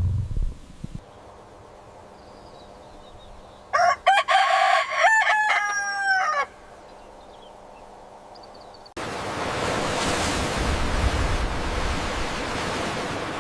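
A rooster crowing once, about four seconds in, a multi-part call ending in a long held note that falls away. From about nine seconds on, a steady hissing noise takes over.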